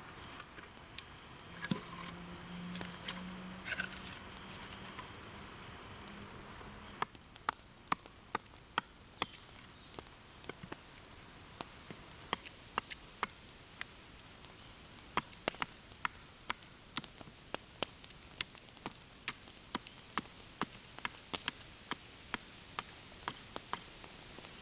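Repeated sharp knocks of a blade chopping into wood, a stake's end being cut to a point, at roughly two strokes a second from about a third of the way in. A low steady hum is heard in the first few seconds.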